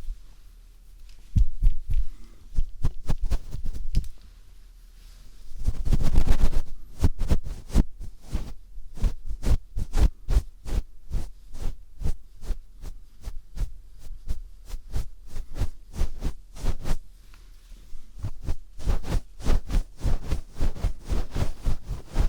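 Phillips screwdriver tip scraping and tapping right at the microphone in mimed ear cleaning: quick irregular clicks and scratches, a few a second. There is a louder rustling scrape about six seconds in.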